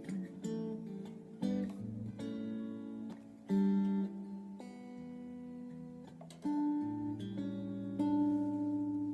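Solo acoustic guitar playing slow chords that are plucked and strummed and left to ring. A final chord struck about eight seconds in is held, ringing on and slowly fading.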